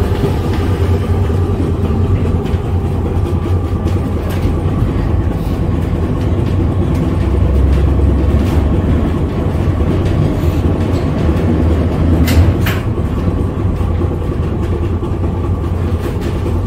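Vintage tram running along its street track: a steady low rumble of the moving car, with a few sharp clicks and knocks from the wheels and running gear, clearest about three quarters of the way through.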